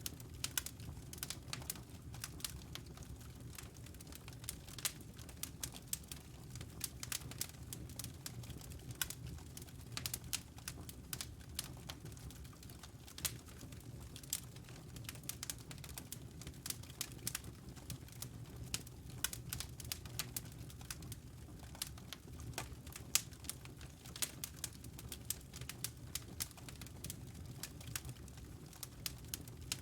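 Wood fire burning in a fireplace: dense, irregular crackles and pops over a steady low rumble of flame.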